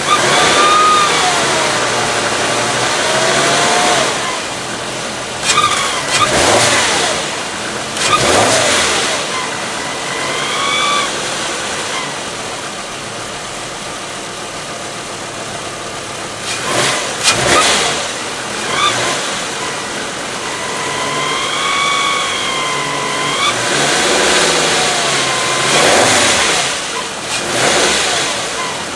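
VW Passat V5 wagon making its abnormal noise: a wavering, squeal-like tone that comes and goes several times over the car's running noise, along with several louder rushing swells.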